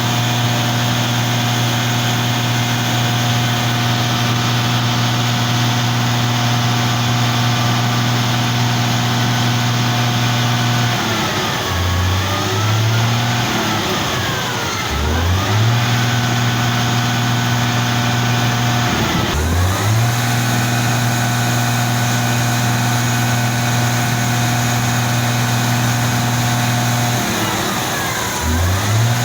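Concrete mixer truck's diesel engine running at a steady speed. Four times, about a third, halfway and near the end, its pitch dips and then climbs back up as the engine speed changes.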